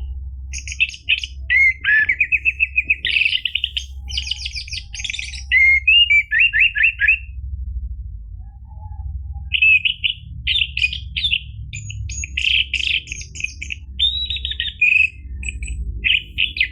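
Orange-headed thrush singing: varied bursts of rapid whistled notes and trills, pausing for about two seconds midway before starting again, over a steady low hum.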